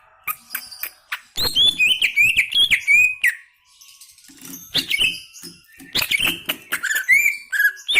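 A cucak ijo (green leafbird) singing in its lively 'gacor' manner: two loud phrases of quick, varied gliding whistles and chatter with a short pause between them, after a few sharp clicks at the start.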